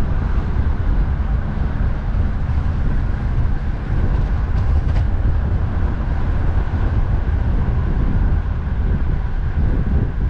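Wind buffeting the microphone of a moving bicycle, over a steady rush of road traffic.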